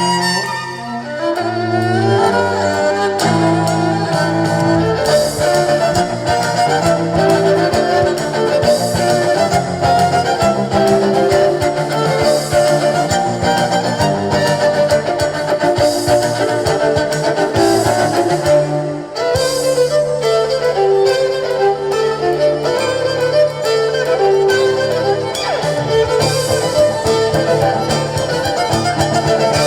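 Live band playing instrumental music, with a violin carrying the melody over bass and guitar; the music drops back for a moment about two-thirds of the way through, then picks up again.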